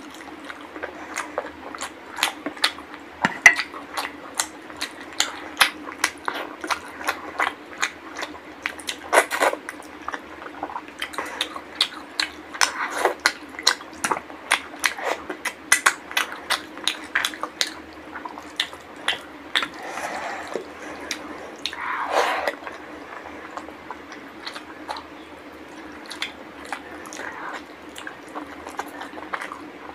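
Close-up wet chewing and lip-smacking while eating mutton curry and rice by hand: a quick irregular run of moist clicks and squelches that thins out near the end, over a steady low hum.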